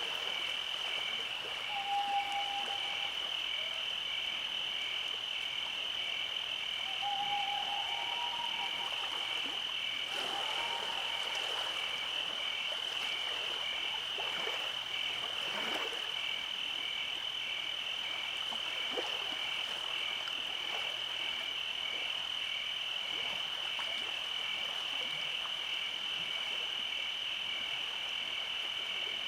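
Night chorus of insects: a steady high shrill drone with a cricket chirping in an even, regular pulse beneath it. Twice, near the start and again around a quarter of the way in, a short low tonal call sounds over the chorus.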